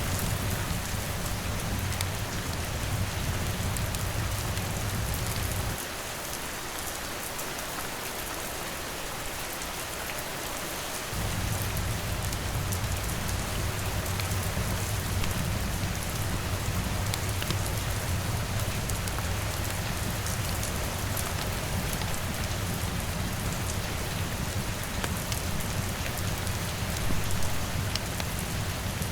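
Steady rain pattering on a window, an even hiss with scattered small ticks of drops. A low rumble runs underneath; it drops away for about five seconds a few seconds in, then returns.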